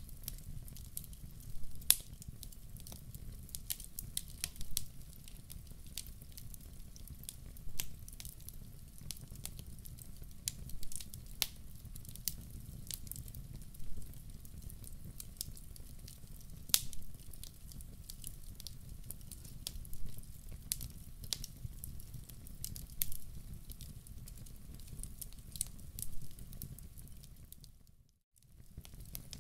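Wood fire crackling in a fireplace: irregular sharp pops and snaps over a low steady rumble of the flames. The sound cuts out for a moment near the end.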